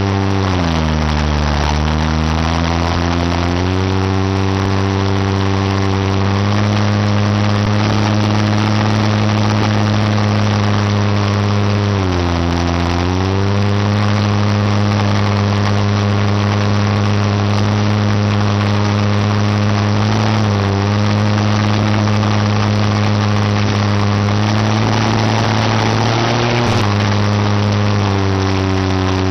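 An engine idling. Its speed sags and recovers just after the start and again about twelve seconds in, with smaller brief dips later.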